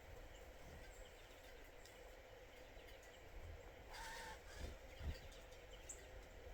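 Faint outdoor quiet with a single short bird call about four seconds in, then a low thump a second later and a few tiny high ticks.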